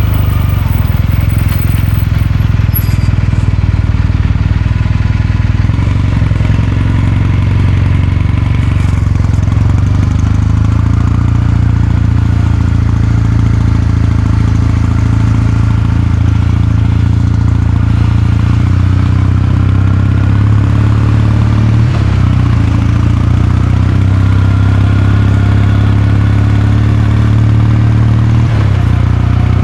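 Kawasaki Meguro K3's air-cooled 773 cc parallel-twin engine and exhaust running at a steady, even pace, with brief changes in the note about two-thirds of the way through and again near the end.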